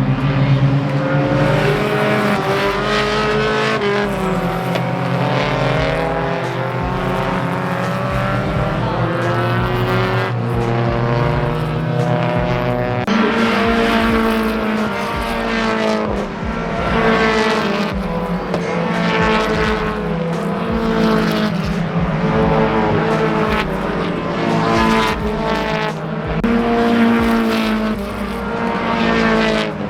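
Mazda Miatas being driven hard on a race track, their four-cylinder engines revving up through the gears and dropping back again and again.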